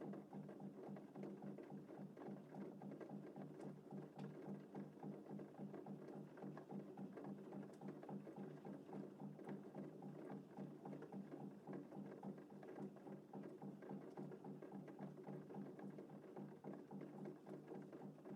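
Steady rain, a dense, even patter of many small drops.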